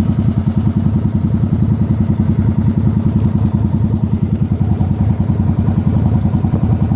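Yamaha Virago 1100's air-cooled V-twin engine running steadily, an even train of low exhaust pulses as it idles.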